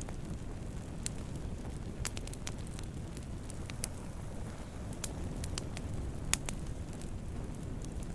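Wood campfire burning, with a steady low rumble of flames and irregular sharp crackles and pops from the burning wood, one louder pop a little over six seconds in.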